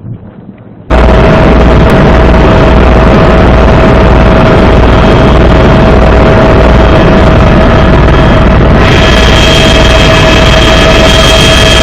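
Helicopter turbine engine and rotor noise, very loud and steady with a low pulsing beat, cutting in abruptly about a second in. A higher whine joins in near the end.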